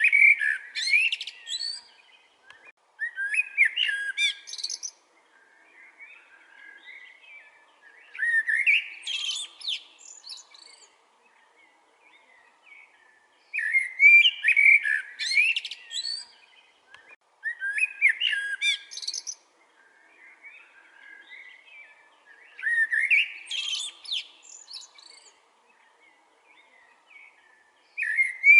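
Common blackbird singing: short phrases of fluty notes, each ending in a higher twitter, repeated about every four to five seconds with short pauses between them.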